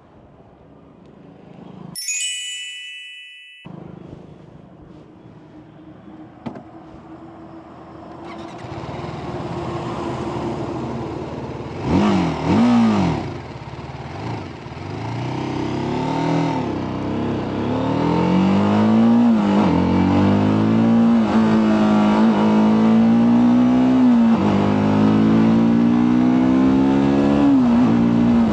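TVS Apache RTR 310 motorcycle through its stock exhaust: after a short chime, the single-cylinder engine idles and is blipped twice, then pulls away with its pitch climbing and dropping back again and again as it is ridden up through the gears.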